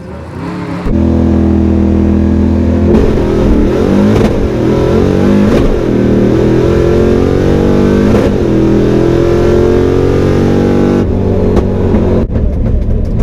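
Drag car's V8 at full throttle on a pass. The engine pitch climbs in about four rising sweeps with a brief dip at each gear shift, then falls away near the end as the car lets off.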